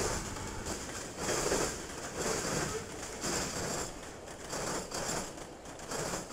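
Railcars rolling past on the tracks: wheel-on-rail noise that comes in surges about once a second.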